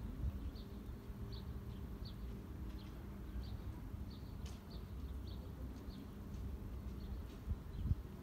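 Small birds chirping: short, high chirps repeated every half second or so, over a low outdoor rumble, with one sharp thump near the end.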